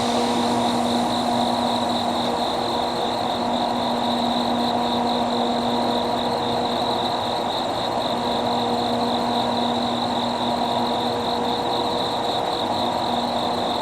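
Diesel locomotive engine running steadily with a constant hum, with insects chirping in a fast, pulsing high trill over it.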